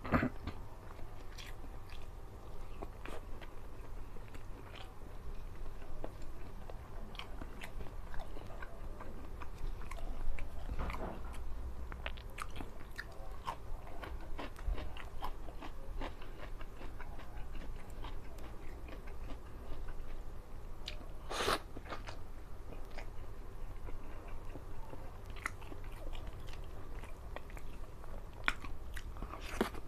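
Close-miked chewing and biting of rice, fish and raw vegetables eaten by hand, a steady run of wet mouth clicks with a few louder crunches.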